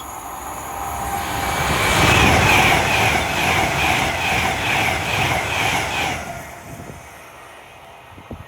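Avanti West Coast Class 390 Pendolino electric train passing through the station at speed: the noise builds over a second or two, holds loud with a quick repeating beat as the bogies go by, then fades away about three quarters of the way through.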